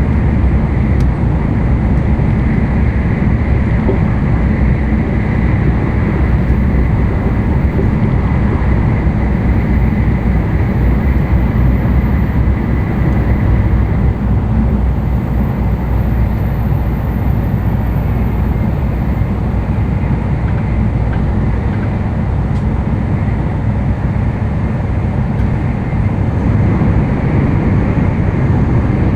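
Running noise of an N700-series Tokaido Shinkansen train heard inside the passenger cabin: a steady, loud rumble and rush from wheels and air, with a faint steady whine above it.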